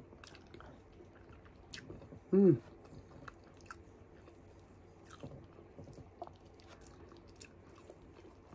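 Close-up eating sounds: soft chewing and wet mouth clicks of a person eating soft fried egg and rice by hand. About two and a half seconds in comes one short, loud hummed 'mm' that falls in pitch.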